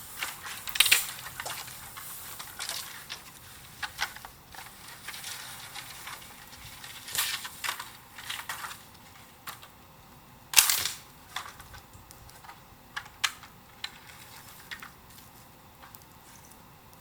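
Bonfire crackling: irregular sharp pops and snaps, the loudest about a second in and again about ten seconds in, growing sparser near the end.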